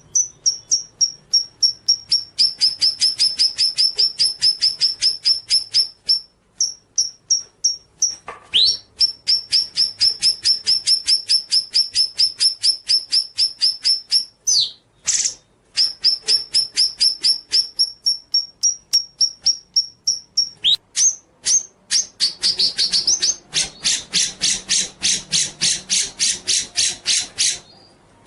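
Songbird song: long series of fast, evenly repeated high whistled notes, about four or five a second, broken by a few short rising sweeps, with a denser, faster series near the end.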